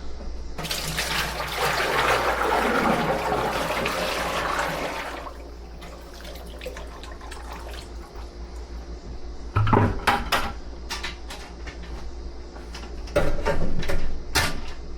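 Cooking oil being poured back into a deep fryer, a steady pouring rush lasting about four and a half seconds. After it come a series of sharp knocks and clanks.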